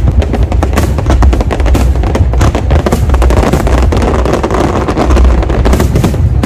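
Fireworks going off in quick succession, a dense run of cracks and bangs over heavy booms, with music playing along.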